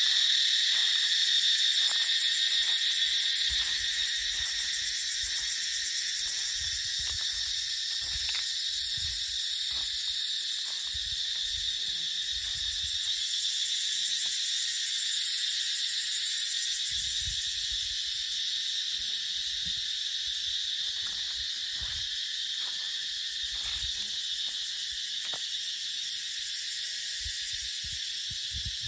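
A dense chorus of cicadas, a steady high-pitched buzz, with irregular low gusts of wind on the microphone.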